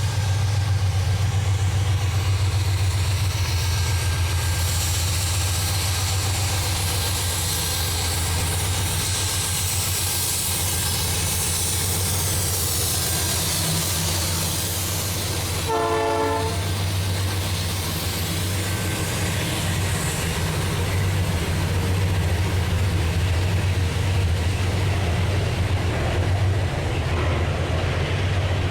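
Diesel freight train running: a steady low locomotive engine drone with wheel and rail noise, and one short horn blast about two-thirds of the way through.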